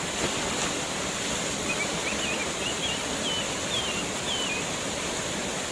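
Steady rushing of a waterfall, with a short run of high, wavering chirps in the middle.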